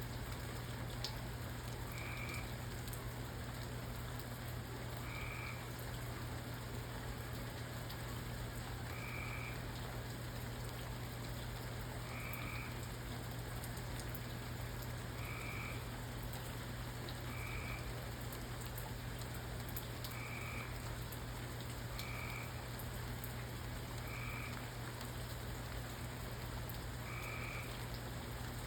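Steady rain, with a short animal call repeated about every two to four seconds over a constant low hum.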